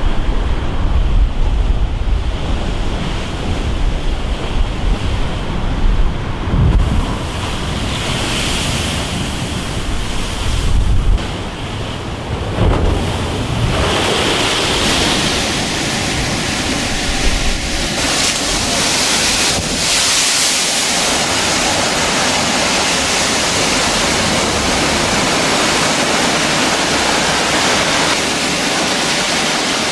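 Stormy sea: surf crashing, with strong wind buffeting the microphone in heavy low gusts. About eighteen seconds in, it changes to a steadier, hissing rush of water and wind.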